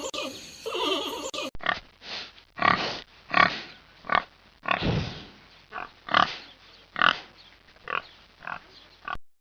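A horse's whinny trails off in the first second and a half, then a pig grunts in a run of about a dozen short, separate oinks spaced a half second to a second apart.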